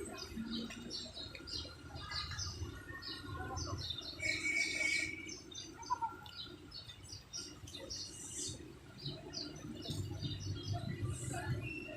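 Small birds chirping, many short high calls one after another, with one longer held call about four seconds in.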